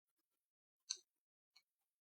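Near silence, with one faint short click a little under a second in.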